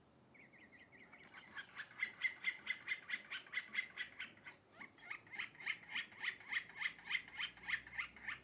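A bird calling a long run of harsh repeated notes, about four or five a second. It begins as a soft fast trill and builds about a second in, with a brief lull midway.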